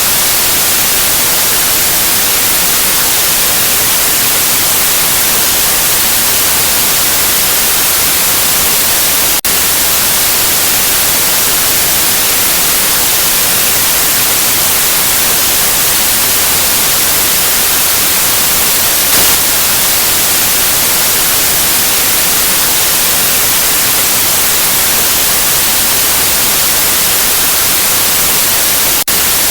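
Steady, loud white noise: an even hiss across all pitches, brightest in the treble, with two momentary dips, about nine seconds in and near the end.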